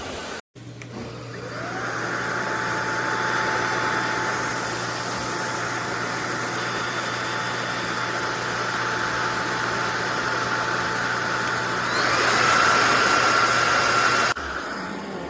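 SunSare X11 cordless stick vacuum's motor spinning up, its whine rising in pitch and then holding steady with a hum under the rush of air. About twelve seconds in it steps up to a higher, louder whine, then cuts off suddenly.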